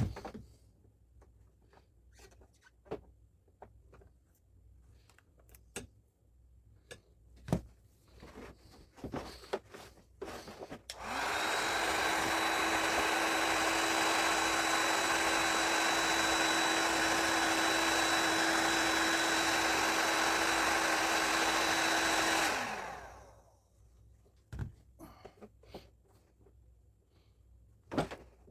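Heat gun running: its fan motor blows with a steady whine and hiss for about eleven seconds, then spins down. It also winds down right at the start. Light clicks and taps of handling come in the quiet stretches, as plastic is heated for welding with plastic rod.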